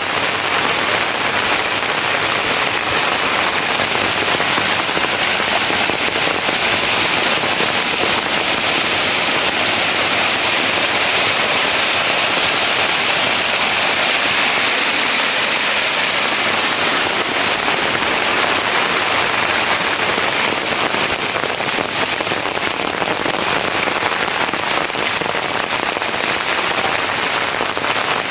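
Heavy rain falling steadily, a dense pattering of drops hitting a surface.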